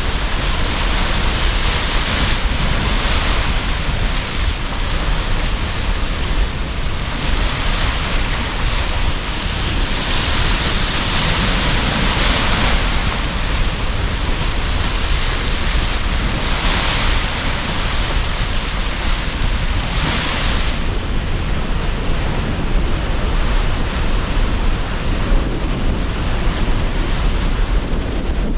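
Sea surf with strong wind: waves wash in and break every four to five seconds over a constant low rush of wind. The wave hiss swells most clearly around two, six, eleven, seventeen and twenty seconds in, and evens out after that.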